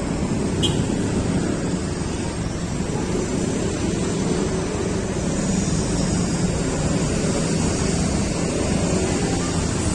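Wind rushing and buffeting over the microphone while on the move along a road, over a steady low engine drone.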